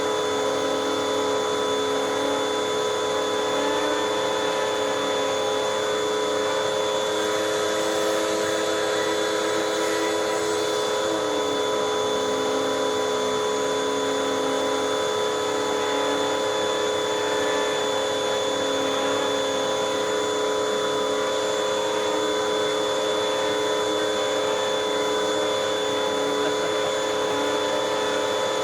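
Hoover WindTunnel 2 High Capacity Pet bagless vacuum running steadily with its finned plastic pet tool on the hose, sucking at fabric cushions. A constant motor whine, with a lower tone that wavers slightly up and down as the tool's load shifts.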